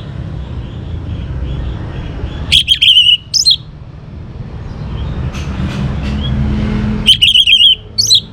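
An orange-headed thrush sings two loud, short phrases, one about two and a half seconds in and one about seven seconds in. Each phrase runs quick high notes into a held warble. A steady low rumble runs underneath.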